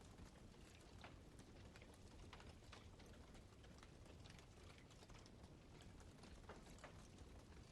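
Campfire crackling faintly: irregular snaps and pops, several a second, over a low steady rumble.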